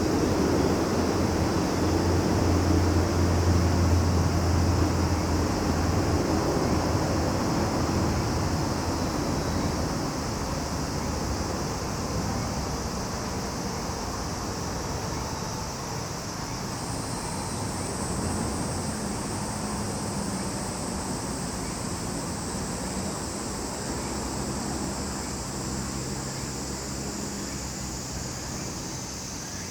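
Steady high-pitched chorus of summer insects, with a thinner, higher tone joining about halfway through. Under it, the low hum of a passing vehicle fades out over the first several seconds.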